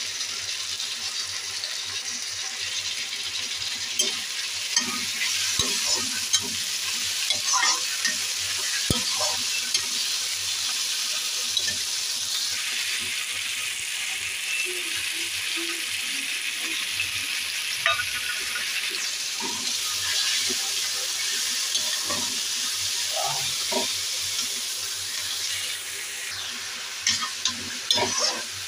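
Chopped cabbage, potato and tomato sizzling in hot oil in a pan, with a steady frying hiss. A metal slotted spatula scrapes and knocks against the pan as the vegetables are stirred, with a cluster of clicks near the end.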